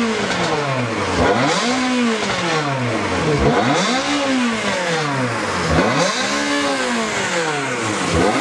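Car engine being revved repeatedly through a loud exhaust, about four blips, the pitch climbing and falling back each time. It measures 122 on the show's sound reading and is called fantastic sounding.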